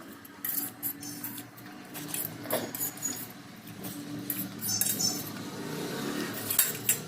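Metal cutlery clinking and scraping against a dish now and then while spicy instant noodles are eaten, over a steady low background hum.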